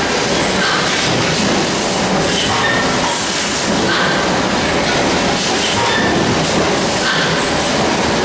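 Steady, loud mechanical running noise with brief higher-pitched patches every second or so, recorded as an abnormal noise.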